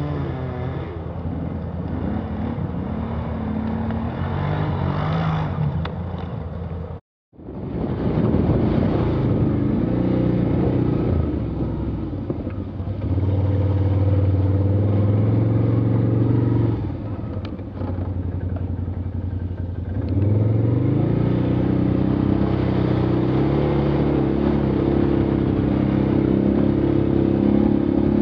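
Off-road vehicle engine running hard under load, its pitch rising and falling as it is revved and eased off. The sound cuts out briefly about seven seconds in.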